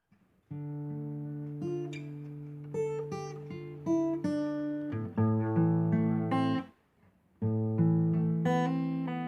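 Acoustic guitar playing an instrumental intro, plucked notes and chords ringing, with a short pause about two-thirds of the way through before the playing resumes.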